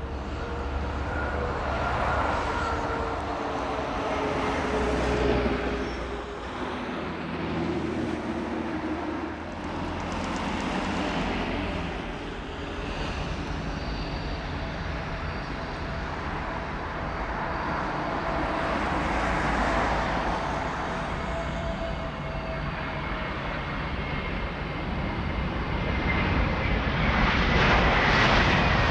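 Jet airliner engines running, a continuous roar with a thin steady high-pitched turbine whine that grows louder near the end.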